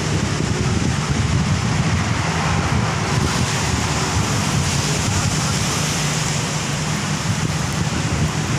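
Heavy rain falling on a wet road, a steady hiss, with wind buffeting the microphone as a low rumble.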